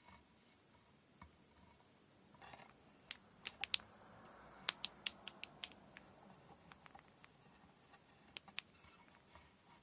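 Faint handwork sounds of kumihimo braid preparation: a soft rustle of cotton thread, then small groups of quick, sharp clicks and taps from handling the braiding tools.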